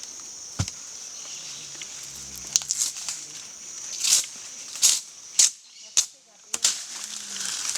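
A string of short, sharp crinkling rustles, like dry leaves or plant material being handled, over a steady high-pitched drone of insects; faint voices in the background.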